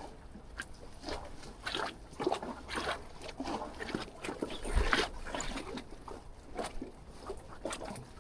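Water slapping and sloshing irregularly against the jetty's pilings, several short splashes a second. A gust of wind buffets the microphone about five seconds in.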